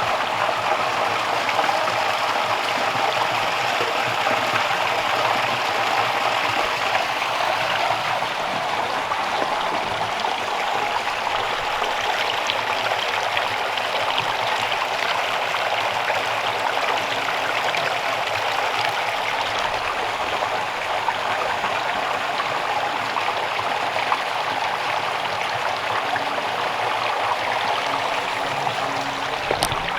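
Steady rush of running water from a small stream, even and unbroken throughout.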